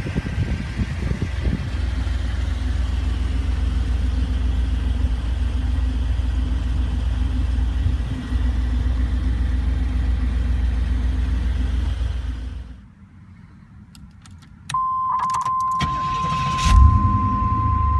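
1987 Chevrolet Camaro IROC-Z's V8 idling steadily, then shut off about two-thirds of the way in. A few clicks and a steady high warning tone follow, and the engine fires up again near the end and settles back into an idle.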